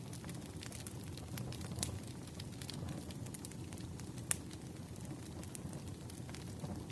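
Wood fire burning: irregular snaps and pops over a low steady rumble, with one sharper pop about four seconds in.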